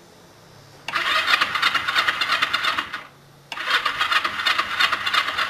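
Honda CB125tt motorcycle's electric starter cranking the engine in two bursts of about two seconds each, with a short pause between, and the engine not catching. The bike has sat for about a month and a half on a freshly charged battery, and choke is tried next.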